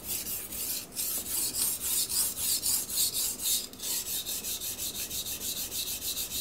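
A steel knife blade being stroked quickly back and forth on a whetstone, about four rasping strokes a second with two brief pauses, working the burr along the edge.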